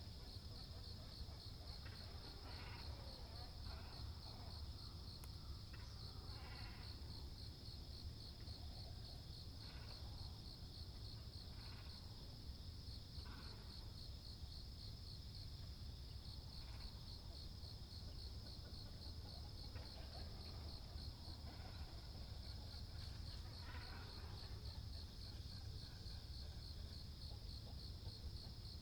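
A steady, high, pulsing insect trill over harsh, short calls from great cormorants and herons every couple of seconds, with a low rumble underneath.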